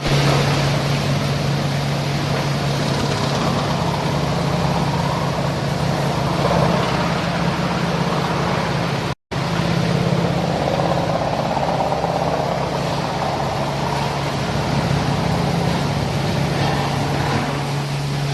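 Industrial wood-grinding sawdust machinery running steadily with a strong low hum and a rushing noise over it, dropping out briefly about nine seconds in.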